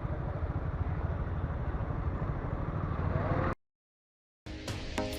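Motorcycle engine running steadily with a fast low pulsing and rushing noise, cut off abruptly about three and a half seconds in; after a second of dead silence, background music with a beat begins.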